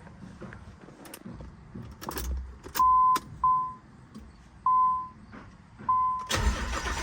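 Small clicks, then a car's warning chime beeping four times, then the Nissan 300ZX's V6 cranks and catches on a cold start with about a second to go. It takes a while to start, with the misfire its owner is chasing.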